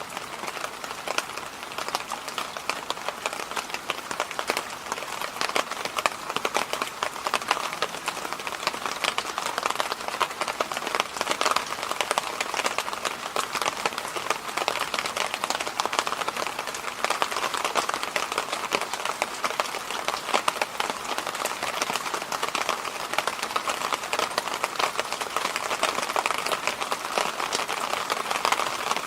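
Electric fan running steadily: an even hiss of moving air with a band around the middle of the range and a dense, fine crackle over it.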